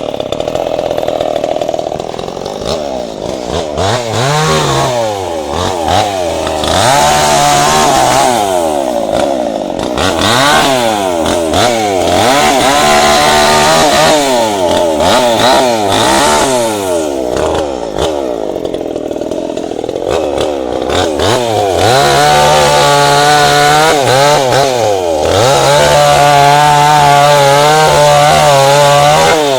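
Tanika MS 5800 two-stroke chainsaw working on a tree trunk, its engine repeatedly revving up and dropping back. From about two-thirds of the way in it is held at steady high revs for several seconds at a time, with two brief dips.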